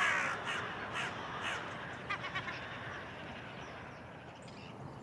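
Carrion crows cawing: a run of harsh caws in the first second or so, then fainter ones trailing off. A rapid chattering run of another bird comes briefly about two seconds in.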